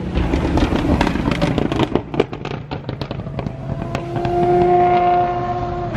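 A supercar passing on a wet track. Its exhaust crackles and pops for the first few seconds, then the engine holds one steady note, loudest around four to five seconds in.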